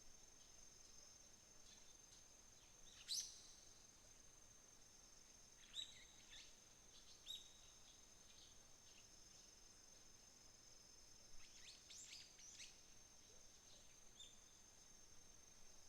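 Faint outdoor dawn chorus: an insect's steady high-pitched trill throughout, with scattered short bird calls over it. The loudest call comes about three seconds in, a few more around six to seven seconds, and a cluster near twelve seconds.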